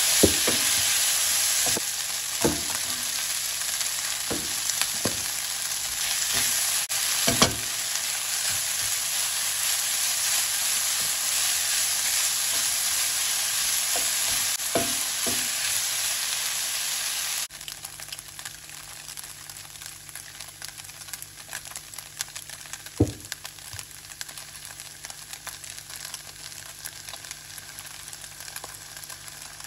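Vegetarian chicken pieces sizzling in a nonstick frying pan, stirred with a wooden spatula that knocks against the pan now and then. About halfway through, the sizzle drops sharply to a softer level.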